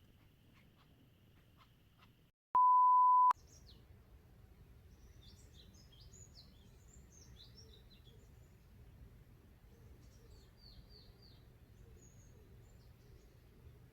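A loud, steady electronic beep, under a second long, cuts in after a brief dropout early on. It is followed by small wild birds chirping and twittering in short, scattered calls over a low outdoor rumble.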